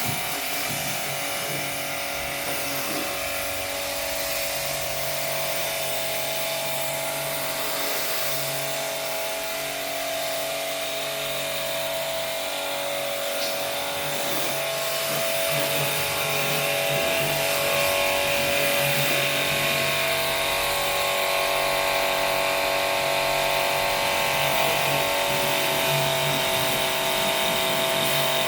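A small electric motor running steadily with a continuous whine, getting somewhat louder about halfway through.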